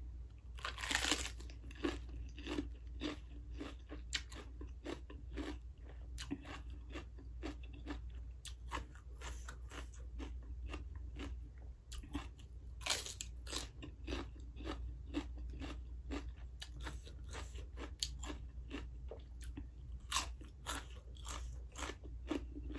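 Raw lettuce being bitten and chewed close to the microphone: crisp crunching chews at about two a second. Louder bites come about a second in and again just past the middle.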